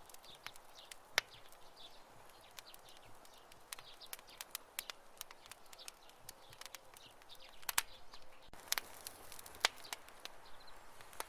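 Wood campfire crackling: irregular sharp pops and snaps over a soft steady hiss of burning, with a loud pop about a second in and a cluster of louder ones near the end.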